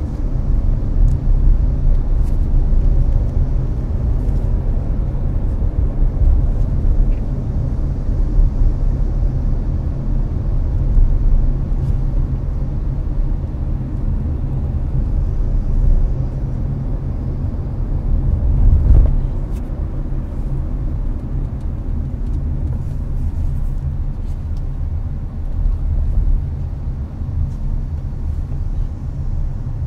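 Steady low rumble of road and engine noise inside a Hyundai Avante's cabin at expressway speed, with the air-conditioning fan running. It swells briefly about two-thirds through.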